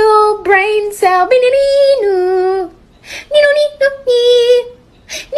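A high voice singing held notes that step down in pitch, with short breaks between phrases.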